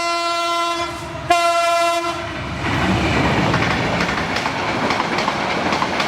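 Train horn blowing two blasts in the first two seconds, each one steady tone. Then a train's rumble with a rhythmic clatter of wheels on the rails.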